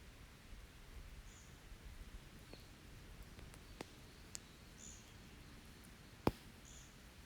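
Open wood campfire crackling faintly, with a few sharp pops, the loudest about six seconds in. A small bird gives a short, high call three times.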